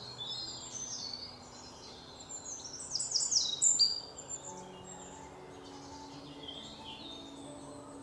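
Birds chirping and twittering, with a quick run of loud falling chirps about three seconds in.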